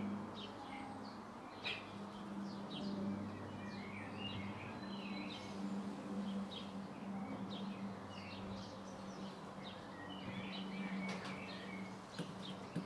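Garden birds chirping and singing in many short, quick phrases, over a steady low hum.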